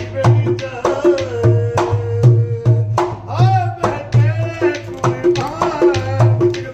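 Rajasthani folk puppet-show music: a hand drum beating a steady, driving rhythm, with a high pitched part sliding up and down over it about three seconds in.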